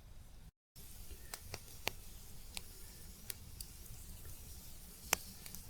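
Campfire crackling: irregular sharp pops and snaps over a low hiss, the loudest pop about five seconds in. The sound cuts out completely for a moment just after the start.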